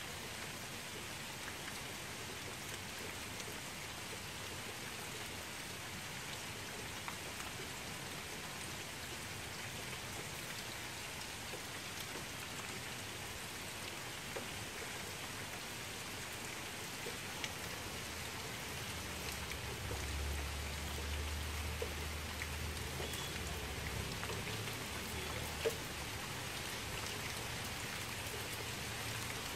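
Steady rain falling on a shallow pool of still water, drops hitting the surface with scattered small ticks. A low rumble joins about two-thirds of the way in, and there is one sharper drop-like click near the end.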